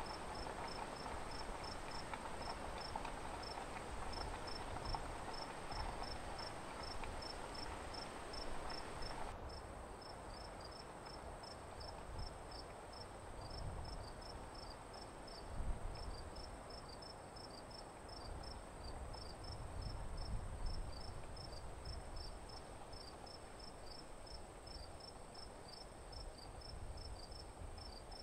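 Crickets chirping: one steady, unbroken high trill and, under it, a regular chirp at about two to three a second, over a soft low rustle. About nine seconds in, the background hiss drops away abruptly while the chirping carries on.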